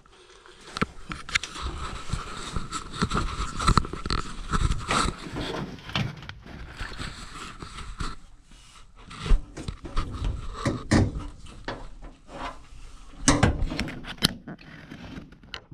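Irregular knocks, clicks and scrapes as an unplugged Samsung front-load washer is handled and checked over, with a faint steady whine for the first six seconds or so.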